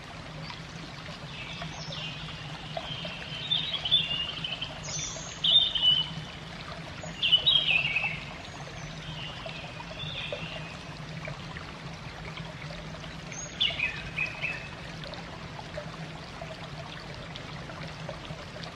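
Small birds chirping in short bunches of calls, loudest in the first half and once more later, over a steady rush of running water and a low steady hum.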